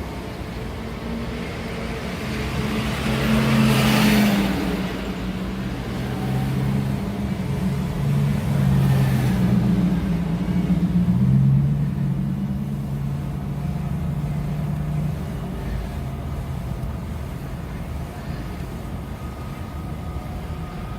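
Car engine running and road noise while driving, the engine note stepping up and down in pitch, with a rushing swell about four seconds in and a smaller one near nine seconds.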